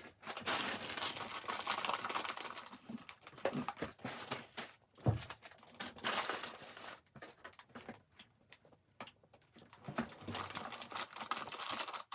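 Crinkling and rustling of plastic packaging being handled, in uneven stretches with short pauses and a few light knocks, as items are arranged in a gift basket.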